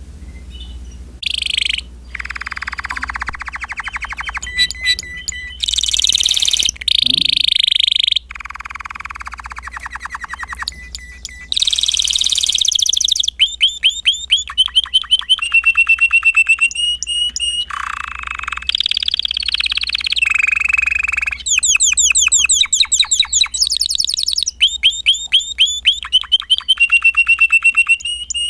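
Spanish Timbrado canary singing a long, varied song of trills and rolls. Some phrases are low and rolling, others are rapid series of repeated high notes, some ending on a held tone, with brief pauses between phrases.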